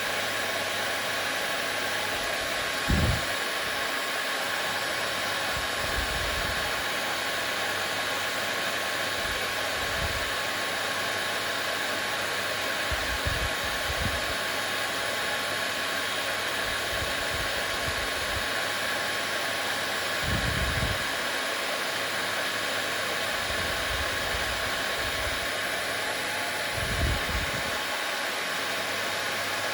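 Hair dryer running steadily, an even rushing noise with a faint steady motor whine. Several soft low thumps sound over it, the strongest about three seconds in and near the end.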